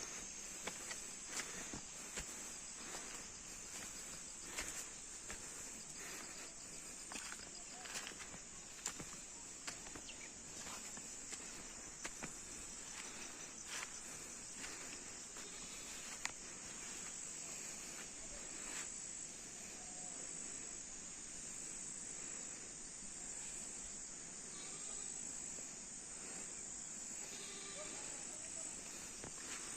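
Insects, crickets by the sound of them, shrilling steadily in a high band. Scattered sharp clicks or taps come through the first half and thin out after that.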